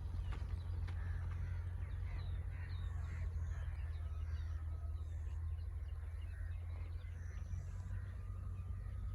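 Many birds calling and chirping in short scattered calls over a steady low rumble.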